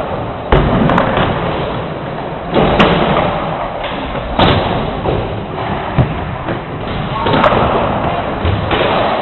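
A string of heavy thuds and slams, about six of them spaced one and a half to two seconds apart, over a continuous rough rumbling noise.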